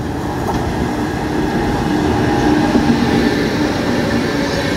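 Express train hauled by an electric locomotive passing close by at speed: a continuous rumble of wheels on rails with a steady hum, growing slightly louder as the locomotive and first coaches go past.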